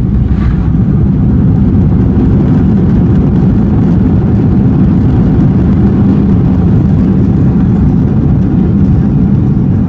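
Loud, steady low rumble inside the cabin of a Boeing 737 during landing, from its engines and the airframe.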